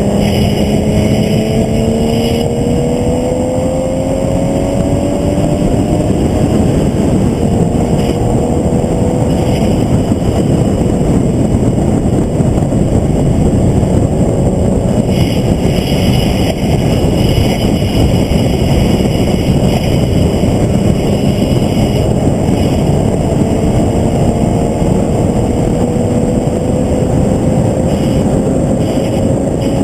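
Onboard sound of a vehicle at speed on a race track: heavy rushing wind noise over the engine, whose note climbs slowly as it accelerates near the start and again in the last few seconds.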